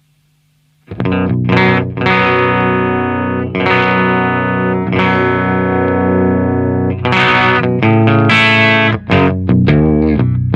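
Electric guitar played through a Diezel VH2 tube amp into a Marshall 1960 4x12 cabinet: heavily distorted chords, let ring and struck again, with quicker strokes near the end. The first second is only a faint amp hum before the playing starts.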